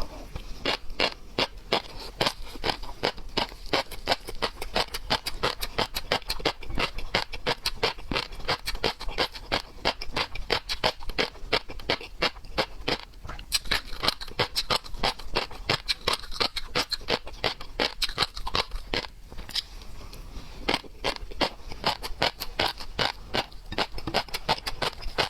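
Close-miked chewing of seafood: a rapid run of wet mouth clicks and smacks, several a second, easing briefly about twenty seconds in.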